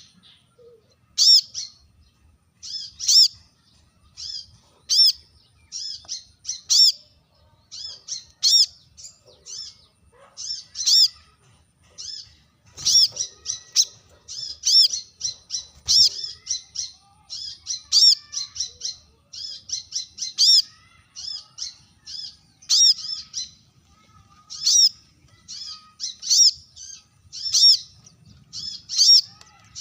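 Brown-throated sunbird giving sharp, high chirping calls in quick clusters, repeated every second or two: a rival-challenging song.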